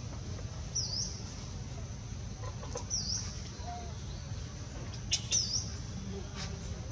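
A bird repeating one short, high call about every two seconds, three times, over a steady low background rumble, with a couple of sharp clicks about five seconds in.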